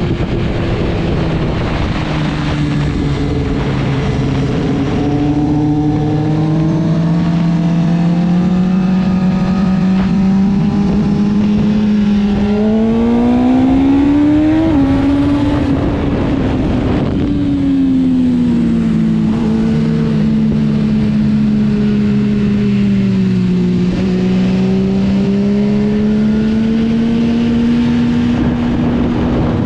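Motorcycle engine running on a track lap, its revs climbing and falling slowly, with a sharp drop at the peak about fifteen seconds in, over a steady rushing noise.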